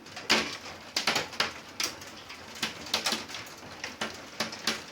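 Hailstones striking hard surfaces: irregular sharp knocks, several a second, over a steady hiss of falling hail.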